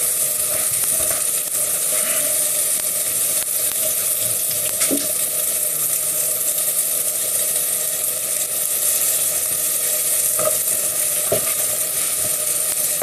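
Sausage meat, onion and rice frying in a pan, with a steady sizzle and a few light clicks about five seconds in and again near ten to eleven seconds.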